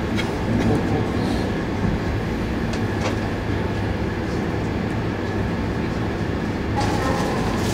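Cabin noise inside an E2 series Shinkansen car: a steady low rumble and hum with a few faint clicks.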